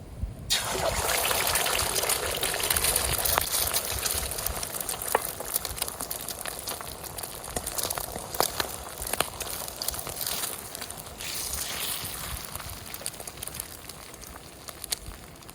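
Ingredients sizzling hard in a hot pan over a wood fire: the frying starts suddenly about half a second in, full of spits and crackles, and slowly settles down.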